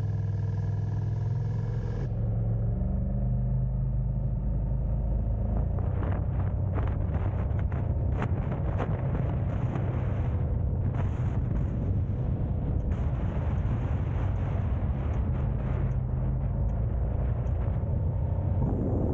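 Car driving: a steady low rumble of road and engine noise. A faint steady whine stops about two seconds in, and from about six seconds in there are many short crackles and knocks.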